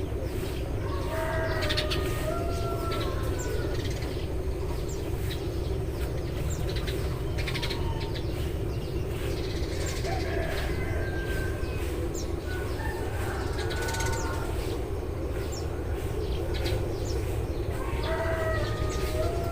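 Eurasian tree sparrows chirping on and off in short, sharp notes. A few longer, lower calls from other birds come in about 1.5 s in, around 10 and 13 s, and near the end. A steady low rumble of background noise runs underneath.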